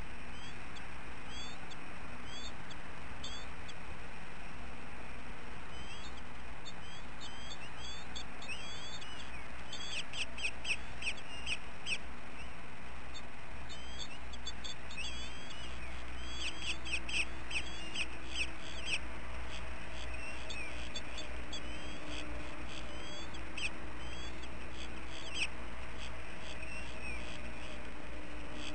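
Birds calling: short high chirps repeat throughout, with two bursts of rapid chirping, about ten seconds in and again about sixteen seconds in, over a steady low hum.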